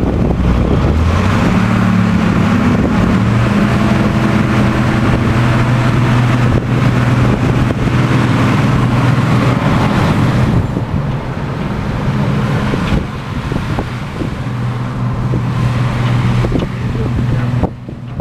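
Motor vehicle engine speeding up about a second in, then running at a steady pitch. It gets quieter about ten seconds in.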